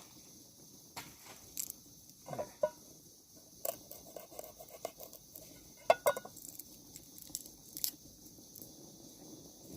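Scattered clicks, knocks and crunches, irregular and a second or so apart, with the loudest knock about six seconds in, over a faint steady high hiss: food and utensils being handled during camp cooking prep.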